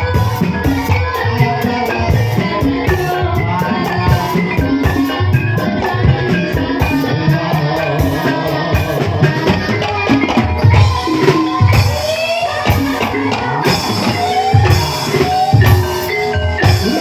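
Live ebeg (Javanese hobby-horse trance dance) accompaniment: a gamelan-style ensemble with fast, steady hand-drumming and tuned percussion carrying the melody.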